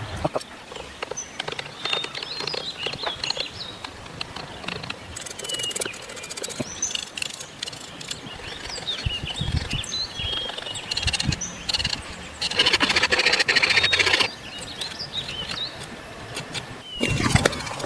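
Small birds chirping throughout, with scattered knocks. About twelve and a half seconds in comes the loudest sound, a harsh, noisy burst lasting about a second and a half. A further loud noise follows near the end.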